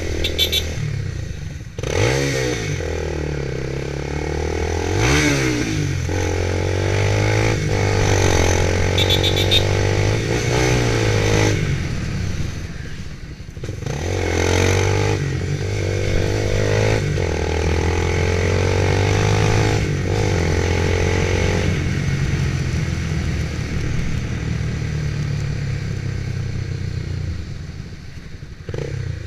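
Motorcycle engine running while riding, its note climbing and dropping again and again as it goes up through the gears, with a brief easing off about thirteen seconds in.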